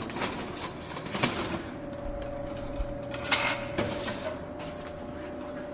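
A run of sharp metallic clinks and rattles. A steady hum comes in about two seconds in, with short noisy bursts a little after three seconds and again near four.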